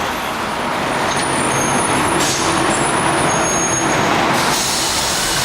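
Steady noise of road traffic on a busy city street, with trucks and buses passing.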